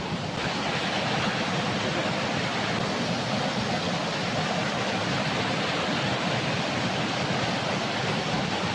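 Stream water running fast downhill, a steady even rush.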